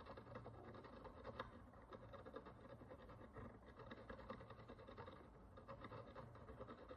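Faint, continuous fine scratching and picking as a small hand tool works the encrusted surface of a Roman bronze follis, removing dirt and oxidation, with one slightly sharper tick about a second and a half in.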